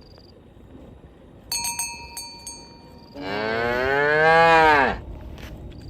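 A cow moos once, a long loud call lasting under two seconds, its pitch rising and then dropping at the end. Before and around it, a metal bell clanks in quick strikes that ring on, typical of a bell worn by one of the herd.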